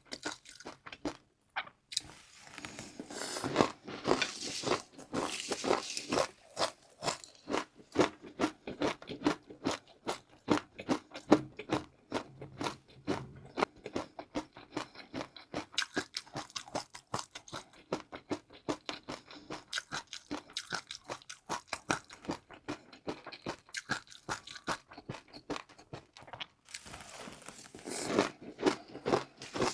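Close-miked chewing of crunchy food: a steady run of crisp crunches as a mouthful is bitten and chewed, louder again near the end with a fresh bite.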